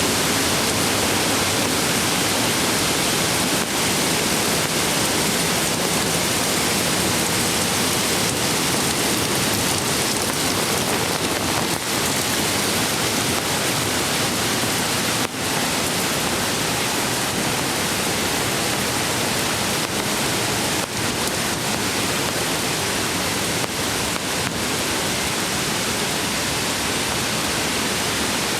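Mountain creek water rushing steadily over rocks, a dense even hiss with no breaks.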